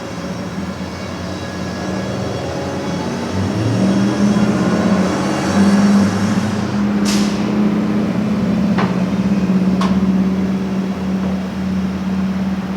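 An engine or motor running steadily with a pitched hum that gets louder about four seconds in, with a few sharp clicks or knocks in the second half.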